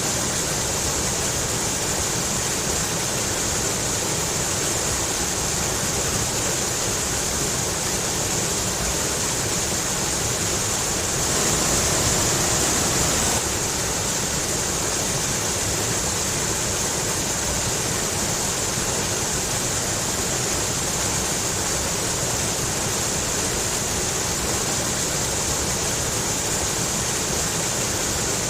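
Rushing stream water splashing over rocks: a steady, even rush with a bright hiss on top. It grows slightly louder for a couple of seconds near the middle, then drops back abruptly.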